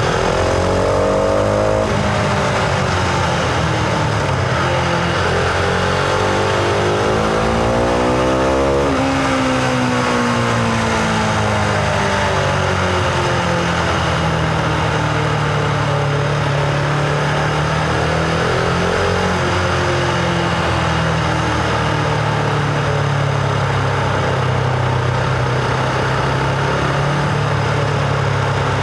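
Husqvarna Vitpilen 701's single-cylinder engine under way, revs climbing through the first two seconds, climbing again until about nine seconds in, then falling away as the throttle closes and settling to a steady cruise.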